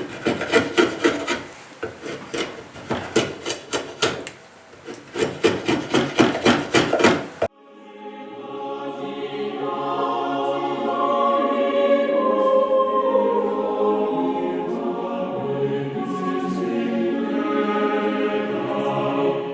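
Rapid rhythmic rasping strokes, several a second, with a short lull about four seconds in. About seven seconds in they cut off suddenly and a choir begins singing, a recording with little treble.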